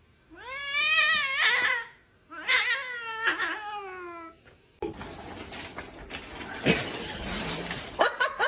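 A kitten meowing twice in long drawn-out cries, the second sliding down in pitch, followed by a few seconds of rustling noise.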